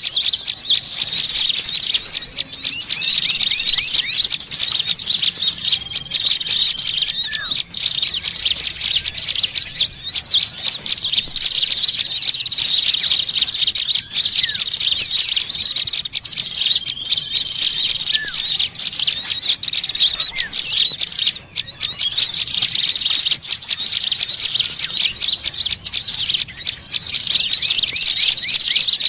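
Dense, continuous chattering of many small songbirds calling at once, a mass of quick high-pitched chirps and twitters. It is a bird-lure (pikat) recording of agitated small birds, of the kind played to draw small birds in.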